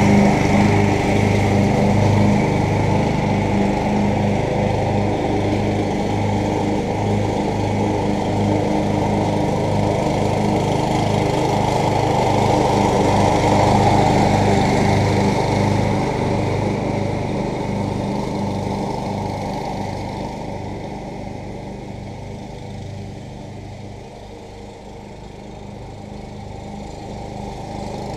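MTD riding lawn tractor's engine running steadily. It fades as the tractor moves away about halfway through and grows louder again near the end.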